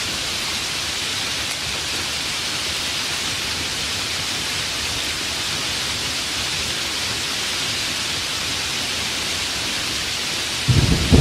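Steady rain falling. Thunder starts to rumble just before the end.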